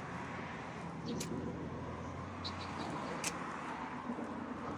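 Steady low hum of road traffic or a running vehicle engine, with a few short high ticks.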